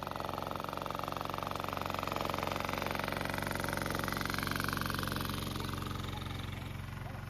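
An engine idling steadily: a low even hum with a fast regular pulse, swelling slightly midway and easing off near the end.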